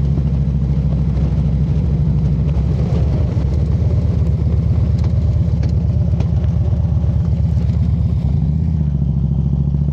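Motorcycle engine running steadily while riding, its low exhaust note changing slightly near the end.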